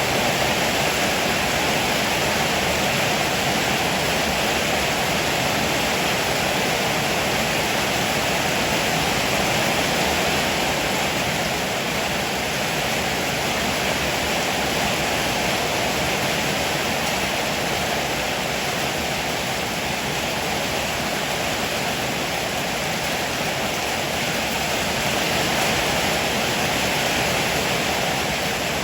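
Heavy rain pouring steadily, a dense even hiss with no thunder or other sudden sounds.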